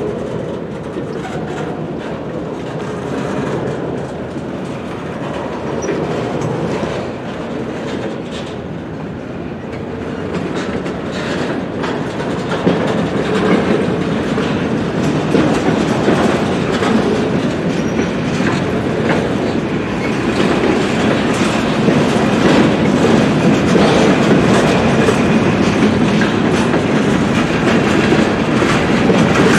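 Freight train cars, centerbeam flatcars among them, rolling slowly past, wheels clicking over the rail joints. The noise grows louder in the second half.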